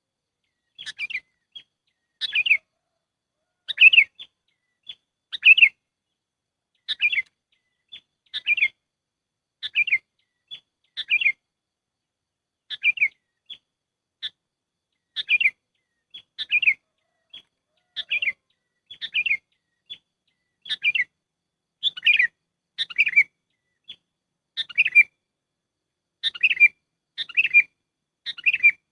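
Sooty-headed bulbul (kutilang) calls: short, bright chirping phrases repeated about once a second, some in quick pairs, in a bird-lure recording.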